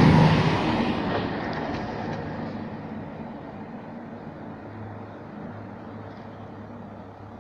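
Class 221 Super Voyager diesel train passing through at speed and moving away, its noise fading over the first three seconds into a faint, steady low hum.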